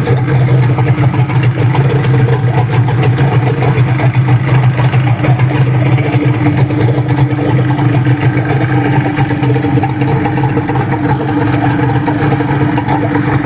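Mesan 9.9 outboard motor, uprated to 20 hp and 326 cc, running steadily at idle on its first start, with cooling water already coming through. The owner thinks its ignition timing is slightly off.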